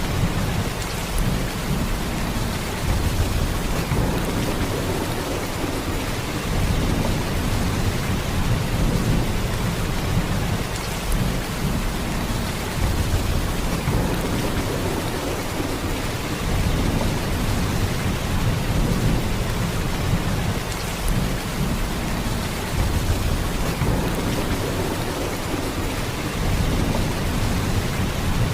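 Heavy rain falling steadily: a dense, even downpour with a deep low rumble that swells and eases gently every few seconds.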